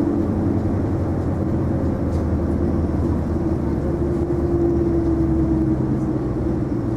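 Isuzu Erga non-step city bus under way, heard from inside the passenger cabin: the engine and drivetrain run with a steady low rumble and a held tone.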